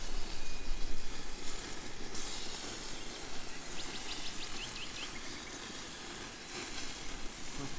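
Steady hiss and crackle of an open wood fire under a spit-roasting whole chicken, louder in the first second or two, with a brief run of high chirps about halfway through.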